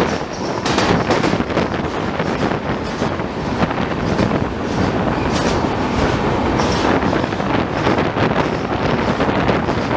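Passenger train running at speed, heard from on board: a steady loud rumble and rush of the coaches, with irregular clicks and knocks from the wheels on the track.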